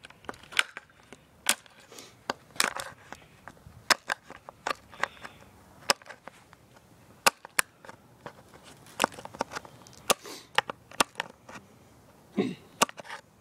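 Irregular sharp clicks and snaps, a couple of dozen spread unevenly, from a part being cut off and trimmed by hand.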